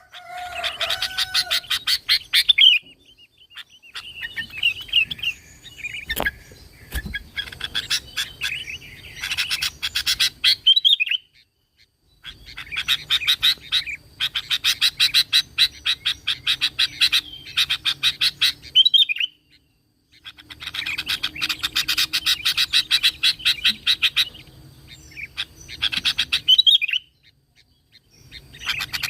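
Sooty-headed bulbul (kutilang) in full song: repeated bouts of fast chattering notes, each lasting a few seconds and ending in a short whistled note, with brief pauses between the bouts.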